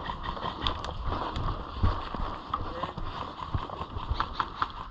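Footsteps of a player moving on foot, irregular thumps with light clicks and rattles of carried gear.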